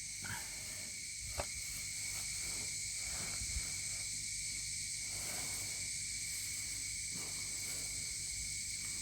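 Steady high-pitched insect chorus, with a couple of faint short knocks.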